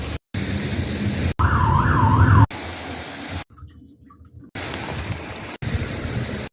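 A quick run of abruptly cut clips of rumbling street and traffic noise; in one, about a second and a half in, a siren wails up and down quickly, about three sweeps a second, for roughly a second.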